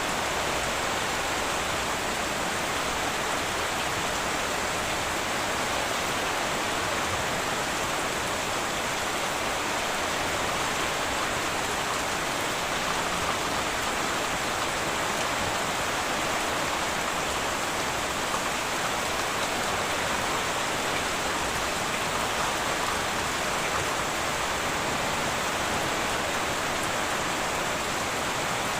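Heavy rain falling steadily on a metal tin roof, an even hiss of drops with no breaks.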